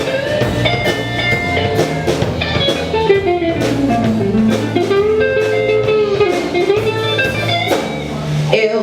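Band instrumental break: a guitar solo with bending, sliding notes over bass and drums.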